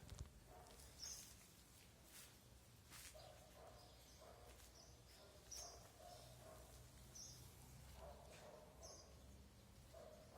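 A bird chirping faintly in short high calls, one every second or two, over a low steady rumble.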